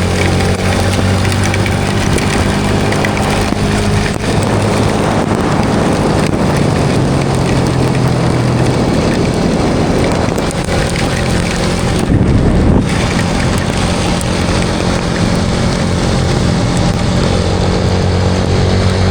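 Vehicle engine running at a steady cruising speed, its note shifting slightly now and then, under heavy wind rush on the microphone.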